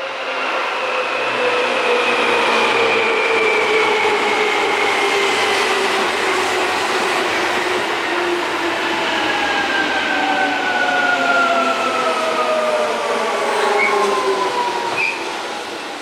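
Seibu 2000 series electric train slowing down. Its motor and gear whine falls steadily in pitch over a rumbling run, with a couple of short high squeaks near the end before it fades.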